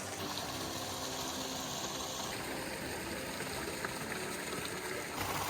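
Steady rush of running water from a creek or small waterfall, its texture shifting about two seconds in and again near the end.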